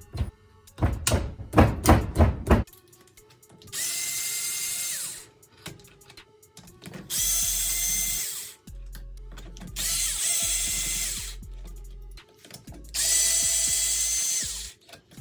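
A few loud knocks at first, then a power drill run four times in short bursts of about a second and a half, each spinning up and winding down. It is backing out bolts on a Suzuki Carry transmission case.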